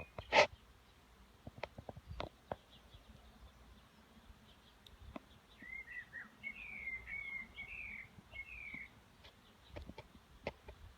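A bird chirping, a short run of quick repeated calls in the middle, over a faint outdoor background. A single sharp knock comes just after the start, with a few fainter clicks scattered through.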